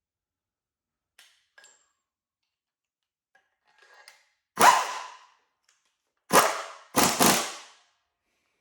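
Four sharp bangs, about two seconds in a row apart at first and the last two close together, each ringing off over about half a second.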